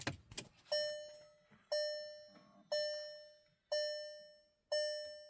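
2021 Volkswagen Jetta's dashboard warning chime sounding five times, about once a second, each a clear single tone that fades before the next, alerting the driver to a 'No key detected' warning. A few small clicks come just before the first chime.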